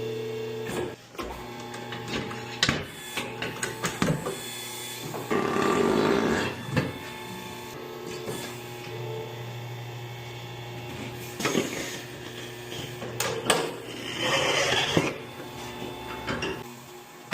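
A machine motor running steadily with a low hum, broken by scattered clicks and knocks and two louder bursts of rushing noise, one about five seconds in and one near the end.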